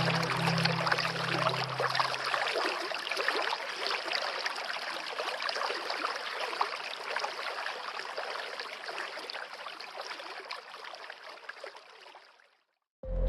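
Flowing river water, a steady rushing and trickling that slowly fades away and stops about half a second before the end. Low background music notes die out in the first couple of seconds, and music starts again right at the end.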